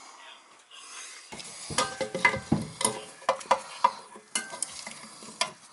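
Irregular metallic clicks and scraping of a hand tool working the tank-to-bowl bolts and nuts of a toilet being tightened down, starting about two seconds in.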